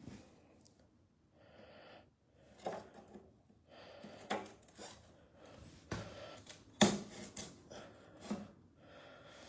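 Hands working on sink and faucet fittings: a string of small clicks and knocks with short bursts of rustling, the sharpest knock about seven seconds in.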